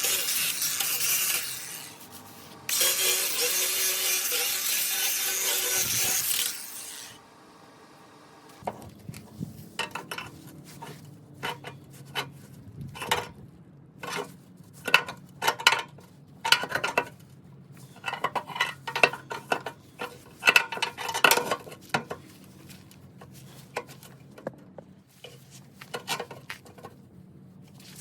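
Angle grinder grinding metal in two long passes, stopping about seven seconds in. Then a run of sharp metallic clinks and scrapes over a low steady hum.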